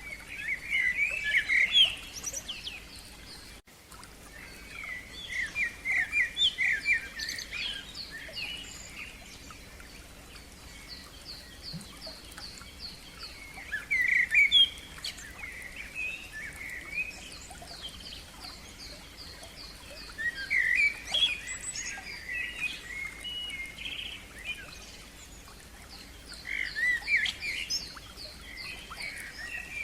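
Songbirds singing in phrases of chirps and quick trills, which come in bursts every few seconds over a faint steady background.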